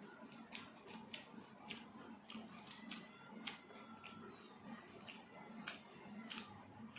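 A person eating, chewing with irregular wet mouth clicks and smacks, about one or two a second.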